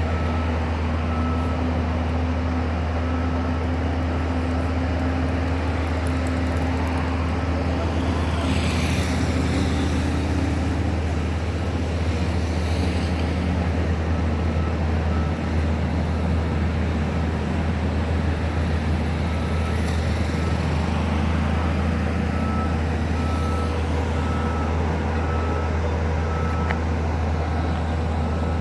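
Heavy construction vehicle's diesel engine running with a steady low drone, its reversing alarm beeping evenly at one pitch for the first few seconds and again through the last third.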